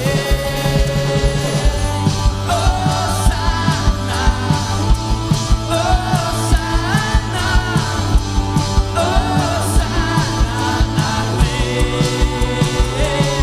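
Rock-style worship band music: drums keep a steady beat under bass and sustained chords, with a melody line gliding above.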